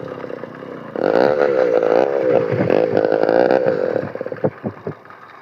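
Motorized bicycle's small two-stroke engine with a straight pipe, no muffler. It revs up about a second in and holds high revs, then backs off near four seconds, breaking into separate popping firing strokes.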